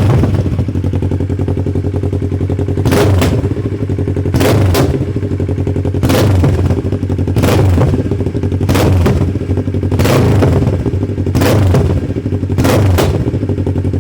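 Superbike engine idling and being blipped about nine times, each quick rev followed by a burst of popping and crackling backfire from the exhaust.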